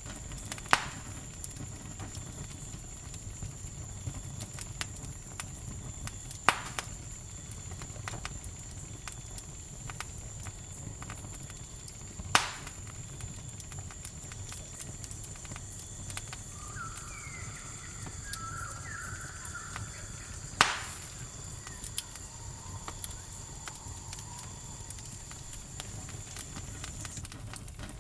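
Campfire crackling with a low rumble and a sharp, loud pop every several seconds, about four in all, over a steady high cricket drone that stops near the end. A few short chirping calls come about two thirds of the way through.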